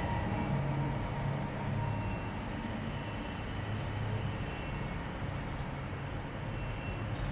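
Steady low vehicle rumble, with the high whine of a BTS Gold Line rubber-tyred monorail train fading away in the first moments.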